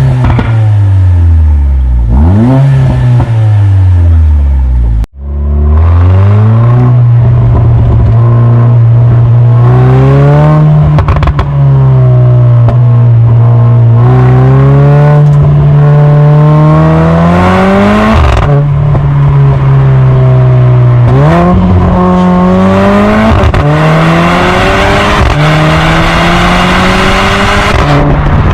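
Mercedes-AMG GLA45's turbocharged four-cylinder engine through an aftermarket X-Fi exhaust, loud. It revs up and down quickly for the first few seconds. After a sudden break about five seconds in, it pulls under acceleration with the pitch climbing and dropping back at several upshifts.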